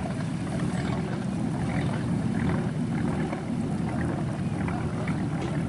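Inboard engine of a classic wooden motorboat running slowly past, a steady low gurgle of rapid exhaust pulses.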